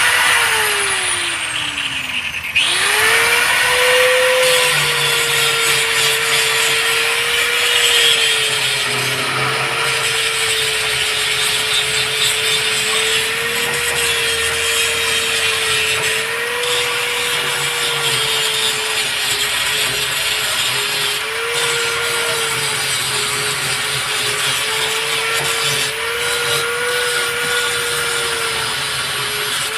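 An electric power tool's motor running at high speed under load over a loud hiss. About two seconds in it shuts off and spins down, then starts again about half a second later and runs on, its pitch sagging briefly now and then as it bears on the work.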